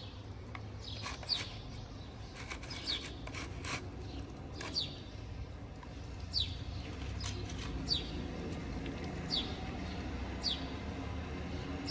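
A small bird chirping again and again, each chirp a short falling note, about one every second or two. Scattered clicks and crunches come from a dog eating food out of plastic trays.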